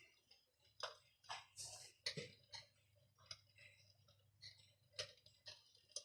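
Electric fireplace giving faint, irregular crackling clicks, like the pops of burning logs.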